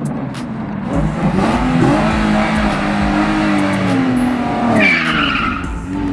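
Car engine revving, its pitch rising and falling, with a short burst of tire squeal about five seconds in.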